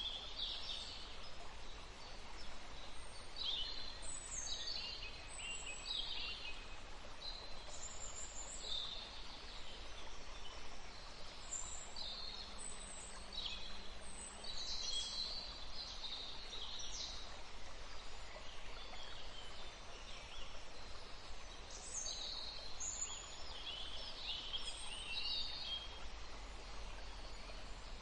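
Several songbirds chirping and singing in short, high, quick-sweeping calls that come thick and overlapping, thinning out for a few seconds past the middle, over a steady faint background hiss.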